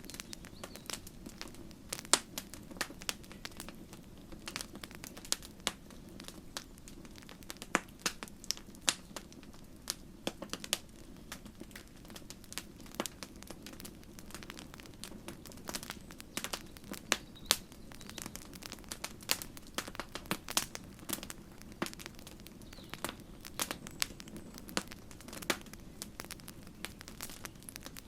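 Wood campfire crackling: irregular sharp pops and snaps, several a second, over a steady low rush of burning.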